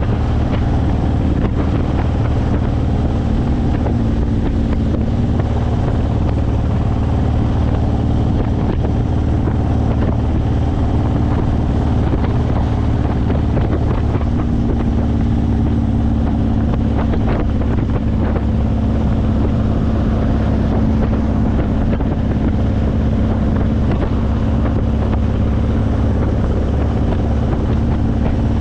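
Honda VTX1800's 1800cc V-twin running at a steady cruise through aftermarket Vance & Hines pipes, with wind buffeting the microphone. The engine note shifts slightly about fourteen seconds in.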